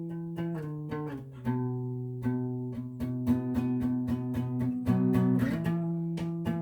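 Guitar music: a steady run of plucked notes and chords that ring on, changing pitch every second or so.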